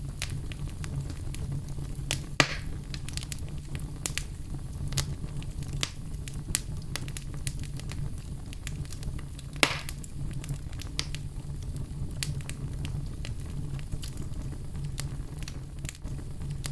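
A fire burning in a fireplace, crackling with frequent small pops over a steady low rumble. Two louder snaps come about two seconds in and again near ten seconds.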